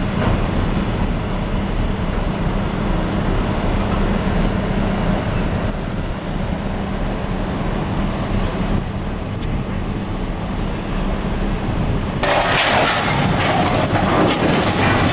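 Heavy vehicle engine running with a steady low rumble. About twelve seconds in, a loud rushing noise starts suddenly and carries on.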